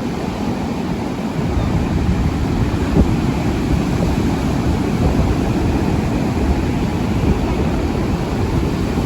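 Wind rumbling across the microphone, with beach surf washing behind it. It grows stronger about a second and a half in.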